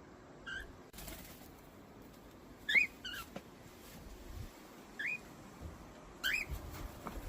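Pet parrot giving about five short, rising chirps spread over several seconds, the loudest about three seconds in, with a few soft low thumps near the end.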